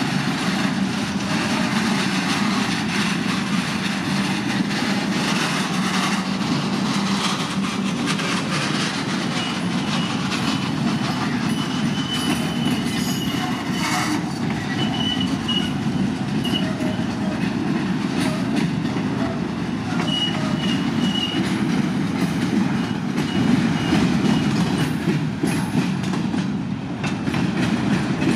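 Freight train of flatcars rolling past close by, its wheels clattering and rumbling steadily. A thin, high wheel squeal comes and goes through the middle stretch.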